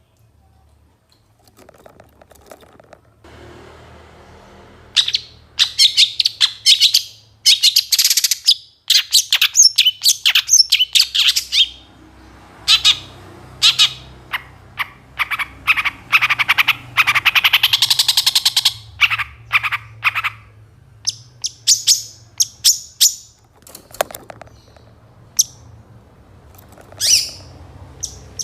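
Long-tailed shrike (pentet/cendet) singing in rapid strings of harsh chattering calls mixed with mimicked phrases of other birds. It starts about five seconds in, after a near-quiet pause, is densest in the middle, and thins to scattered calls near the end.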